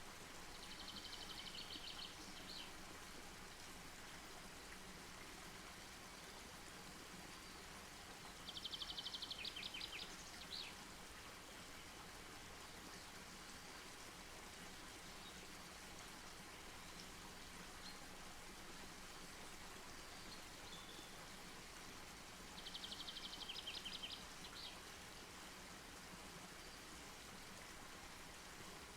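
Faint, steady outdoor hiss, broken three times by a high, rapid trill, each lasting a second or two.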